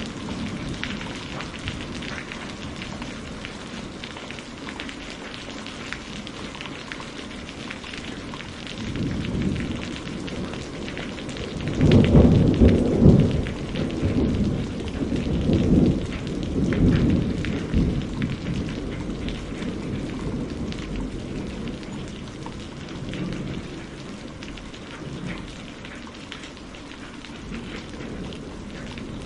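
Steady rain falling, with a long roll of thunder that comes in about twelve seconds in, rolls on in several low surges and fades out over the next several seconds.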